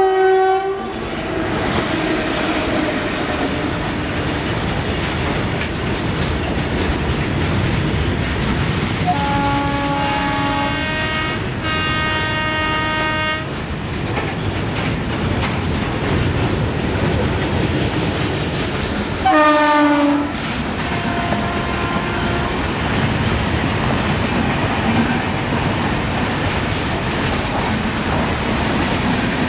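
Electric passenger train running past on a curve, a steady rumble with wheels clattering over rail joints. Its multi-tone horn sounds two blasts about a third of the way in, then a shorter blast about two-thirds in whose pitch drops as the locomotive goes by.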